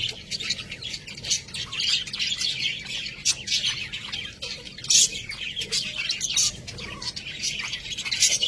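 Budgerigars chattering, a dense run of rapid high chirps and warbles, with a louder burst about five seconds in.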